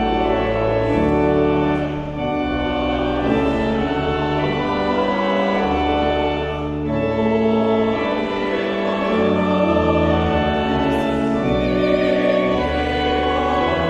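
Choir and congregation singing a hymn in slow held chords, accompanied by a church organ.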